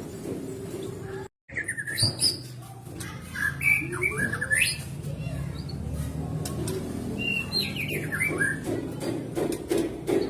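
White-rumped shama (murai batu) singing: quick phrases of sweeping chirps and whistles, over a steady low background. The sound cuts out briefly about a second in.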